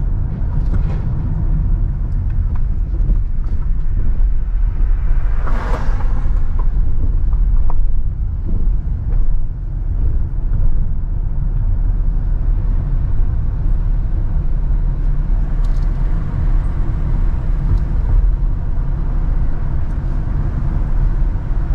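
A car driving over a damaged, broken road surface: a steady low rumble of engine and tyres. About six seconds in there is a brief, louder noise.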